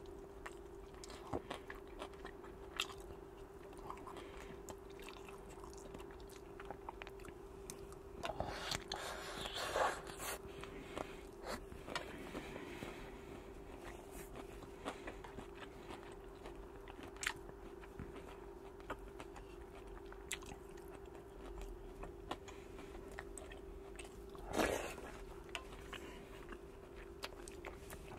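A person eating salmon larb and rice: chewing and biting with small wet mouth clicks, plus a couple of louder noisy moments, around a third of the way in and again near the end, over a steady low hum.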